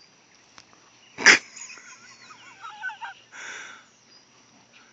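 Mostly quiet open air with faint, warbling bird calls a couple of seconds in. A single short, sharp, loud sound a little over a second in, and a brief hiss about three and a half seconds in.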